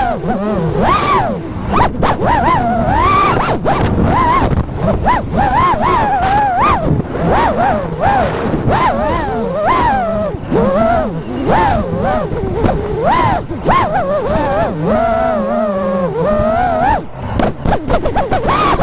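FPV quadcopter's brushless motors whining, the pitch sliding up and down constantly with the throttle, with wind buffeting.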